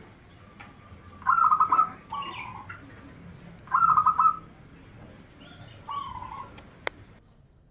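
Zebra dove (perkutut) cooing: three phrases a couple of seconds apart, each a quick stuttering run of notes followed by a lower drawn-out note, the last phrase fainter. A single sharp click near the end.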